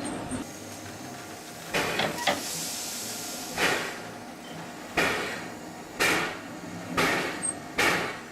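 Steam locomotive at work: seven sharp bursts, each dying away, coming gradually closer together from over a second apart to under one, with a spell of steam hiss near the start.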